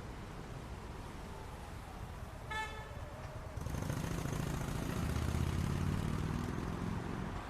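City street traffic: a steady rumble of engines, with a single short car-horn toot about two and a half seconds in. A nearer vehicle's engine grows louder about halfway through.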